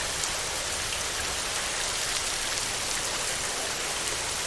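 Heavy rain falling steadily: a dense, even hiss with fine patter of individual drops.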